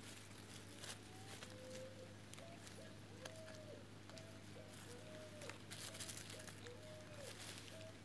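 A bird calling faintly in a steady run of short, low, single-pitched notes, about two a second, each dipping at its end. Soft rustles and light clicks of soil and dry leaves being handled as a lettuce seedling is pressed into the ground.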